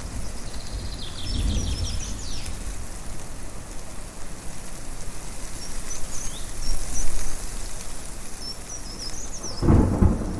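Songbirds chirping in short high bursts over a steady rush of wind, with a low rumble of thunder breaking in near the end.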